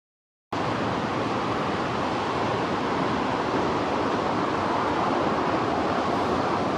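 Heavy ocean surf from a typhoon swell breaking on a sandy beach: a steady, unbroken rushing noise that cuts in suddenly about half a second in.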